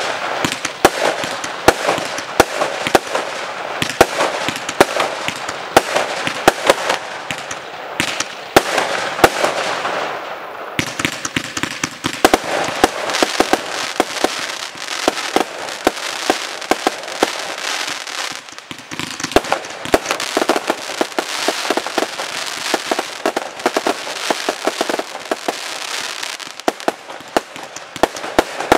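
Aerial fireworks display: a dense, continuous barrage of sharp bangs and crackling from bursting shells and crackling stars, easing briefly twice before building again.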